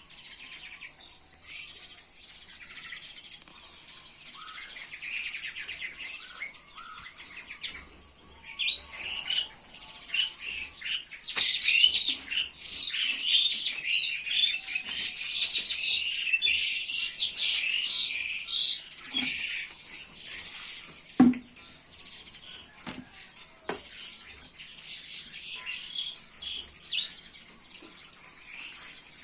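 Small songbirds chirping and twittering in quick, overlapping calls, busiest around the middle, with a single sharp knock a little past two-thirds through.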